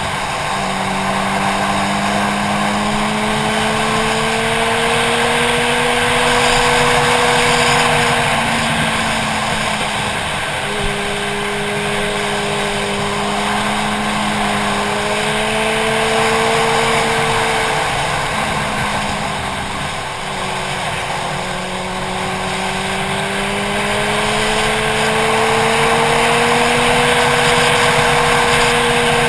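Motorcycle engine under way, its note rising and falling with the throttle and breaking off a few times at gear changes, about 8 seconds in and again near 18 and 21 seconds. Steady wind rush over the helmet-mounted camera runs underneath it.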